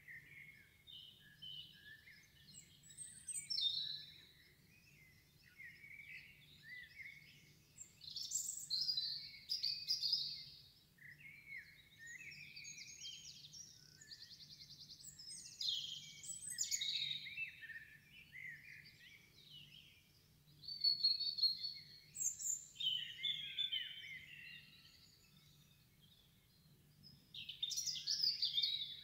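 Small birds chirping and singing, a busy run of short chirps, whistled notes and trills, over a faint low hum.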